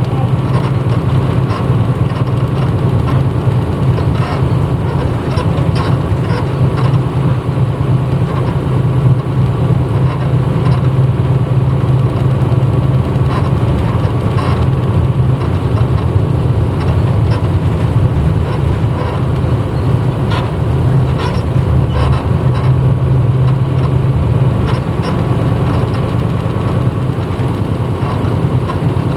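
Engine of a 1994 Hino Blue Ribbon U-HT2MPAA bus running, heard from inside the passenger cabin as a steady low drone, with occasional light clicks.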